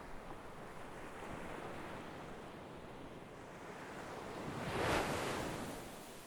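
Sea waves: a low wash of surf that swells into one breaking wave about five seconds in, then fades as it runs out.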